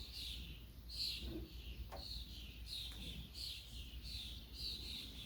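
Faint, high chirping of a small bird, a short falling note repeated about every half second to second.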